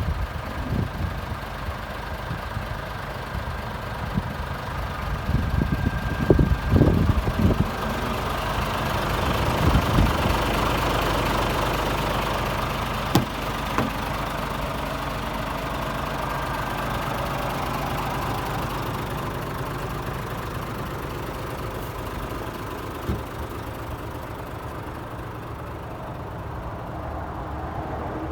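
Scania S500 tractor unit's 13-litre straight-six diesel engine running at a steady idle. A few low thumps come about six to seven seconds in, and a sharp click comes a little later.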